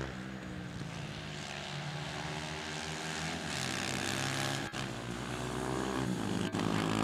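Small single-cylinder pit bike engines running under throttle, their pitch rising and falling, with two brief breaks in the sound in the second half.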